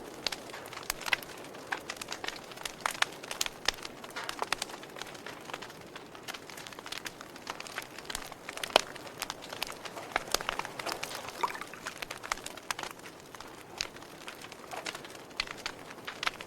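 Wood fire crackling, with irregular sharp pops over a steady low hiss and one louder pop about nine seconds in.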